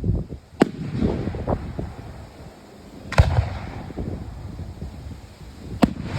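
Fireworks bursting overhead: three sharp bangs about two and a half seconds apart, the middle one loudest, with rumbling echoes and smaller pops between.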